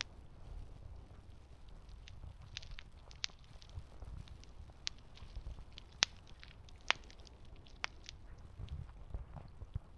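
Campfire crackling: sharp, irregular pops and snaps, the loudest about six and seven seconds in, over a low rumble.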